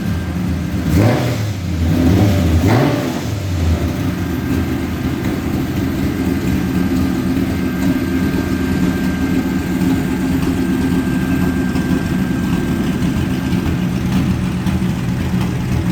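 Ford 5.0 Coyote V8 running through a stainless exhaust with X-pipe and Borla mufflers: it is blipped twice, about a second and just under three seconds in, then settles into a steady idle.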